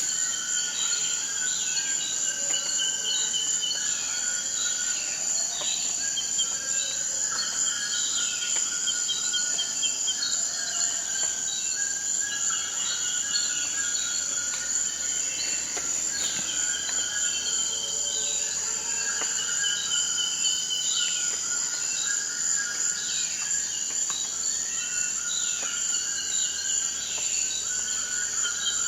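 Forest ambience: a steady high-pitched insect drone under many overlapping bird calls, chirps and short trills, some sweeping down in pitch.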